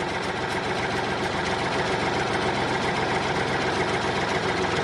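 Tractor engine idling steadily, with a rapid even low putter.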